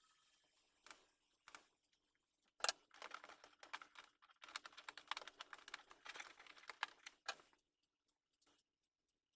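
Small hard plastic and metal computer parts being handled: a few separate sharp clicks, then several seconds of rapid clicking and rattling that stops suddenly.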